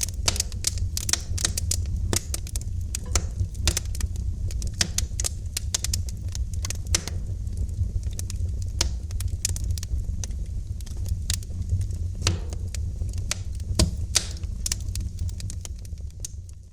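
Wood fire in a fireplace crackling: irregular sharp pops and snaps, several a second, over a steady low rumble of the flames. The sound drops away near the end.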